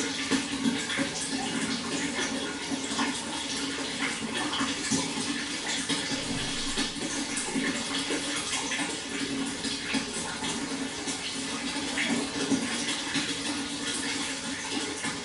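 Water flowing steadily, with a dense patter of small splashes.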